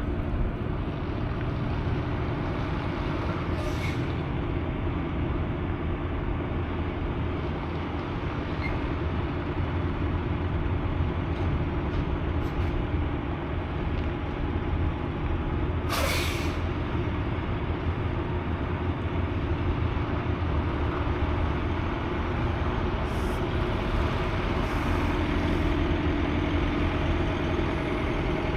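Semi-truck's diesel engine running steadily, with a short sharp hiss of air from the air brakes about sixteen seconds in and fainter puffs of air now and then.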